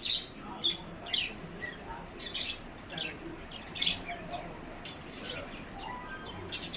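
Small birds chirping: many short, high chirps, a few each second, overlapping, over a steady background hiss.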